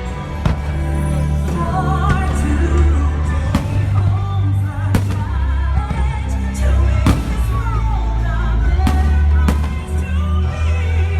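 Fireworks show soundtrack: music with a singer holding wavering notes, with about half a dozen sharp firework bangs cracking over it at irregular intervals.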